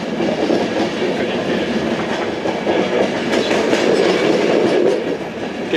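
Train running along the track, heard from inside at the front: a steady rumble of wheels on rails with a few light clicks.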